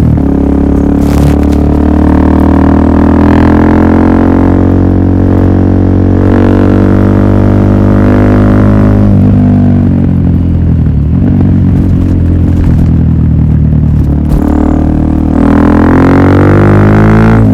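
Suzuki DR-Z400SM's single-cylinder four-stroke engine running through a Yoshimura full exhaust system, a deep steady drone. Its pitch falls about halfway through and climbs again near the end.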